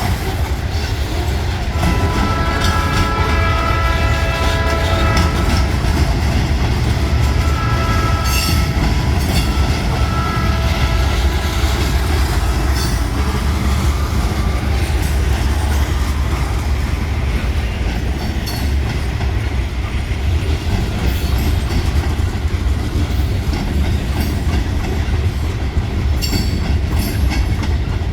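A long Cincinnati Eastern Railroad freight train passing close by: the diesel locomotive's horn sounds a long blast about two seconds in, then two shorter ones, ending about ten seconds in. Under it and after it, a steady low rumble of the train with the clickety-clack of the wheels over rail joints.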